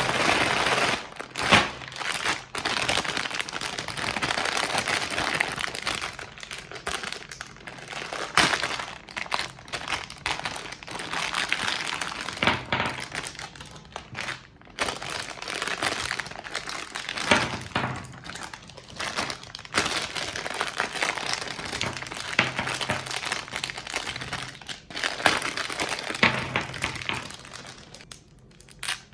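Hard lollipop candy crinkling and cracking as it is crushed, with sharp louder cracks every few seconds.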